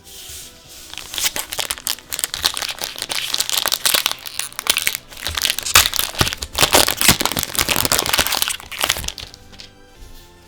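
Plastic wrapper of a sleeved trading-card booster pack crinkling and crackling as it is handled, a dense run of irregular crackles that fades out near the end, over soft background music.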